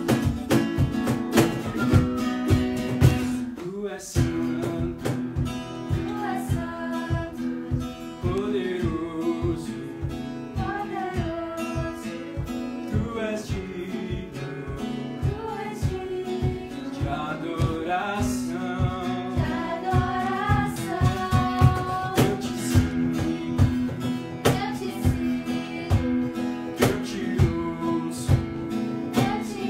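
Acoustic guitar strummed in a steady rhythm, with singing.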